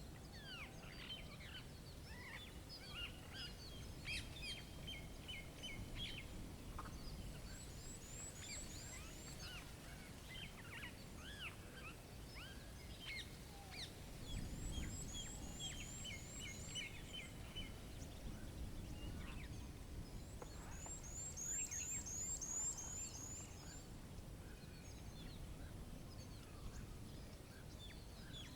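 Small songbirds chirping and calling throughout, with several quick runs of high, falling notes. A steady low rumble of wind sits underneath, swelling briefly about halfway through.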